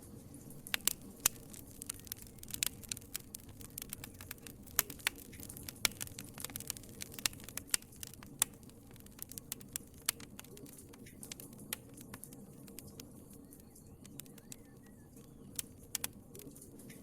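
Wood fire crackling in a fireplace: irregular sharp pops and snaps over a low steady rumble of the flames. The pops come thick in the first half, thin out past the middle and bunch up again near the end.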